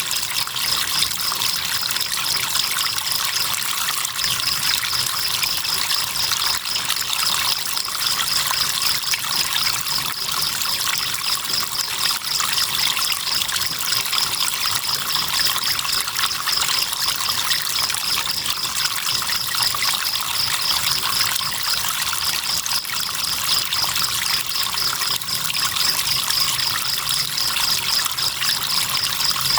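River water trickling and babbling steadily, with crickets chirping in a fast, even pulsing trill high above it; the trill drops out briefly about four seconds in.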